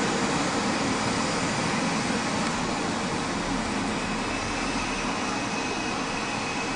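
Electric locomotive hauling a passenger train slowly into a terminus platform: a steady rumble of wheels and running gear, easing off slightly, with a faint high whine coming in about halfway through.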